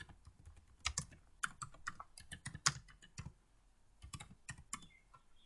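Typing on a computer keyboard: irregular key clicks, with a pause of about a second a little past the middle.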